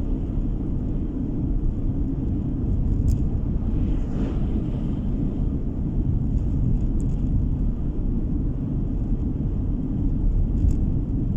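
Steady rumble of road and engine noise inside a moving car's cabin, heard as a low, even drone.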